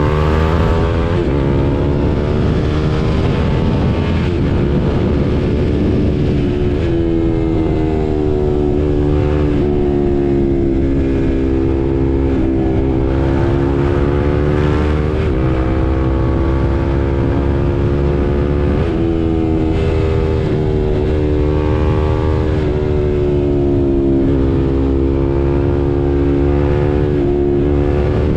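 2022 KTM RC 390's single-cylinder engine under way, its pitch climbing and dropping again and again as it accelerates, shifts and eases off. A dense low rumble of wind runs under it.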